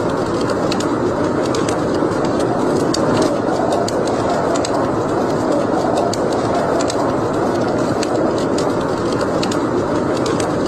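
Wood fire burning in a fireplace: a steady rushing sound with frequent small crackles and pops scattered throughout.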